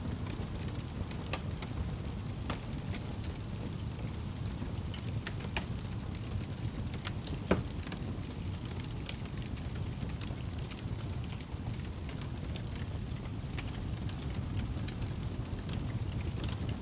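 Wood fire burning in a fireplace: a steady low rumble with scattered crackles and one louder pop about halfway through.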